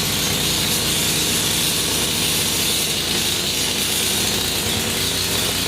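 Ariens AX 208 single-cylinder engine on a single-stage snowblower, running steadily at an even speed just after starting, now that its carburetor has been cleaned and rebuilt.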